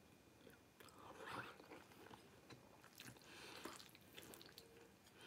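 Faint chewing and mouth sounds of a person eating a mouthful of beef stir-fried noodles, with small wet clicks and two soft, noisy swells about one second and three seconds in.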